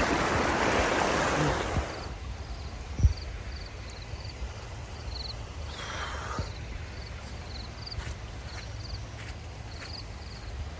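Rushing water of a rain-swollen stream for about two seconds, then fading away. After that comes a low wind rumble with repeated short, high chirps and a single thump about three seconds in.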